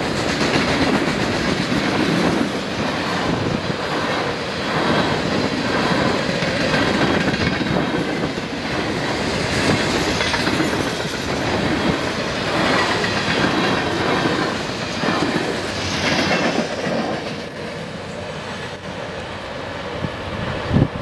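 Freight cars (tank cars, autoracks, covered hoppers) rolling past close by: a steady rumble of steel wheels on rail with a rhythmic clickety-clack as the wheels cross rail joints. It eases off near the end as the tail of the train pulls away.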